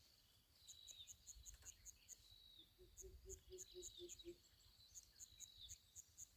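Faint insects and birds: trains of very high chirps at about five a second, a short high call falling in pitch repeated every second or so, and a brief run of low pulsed calls about three seconds in.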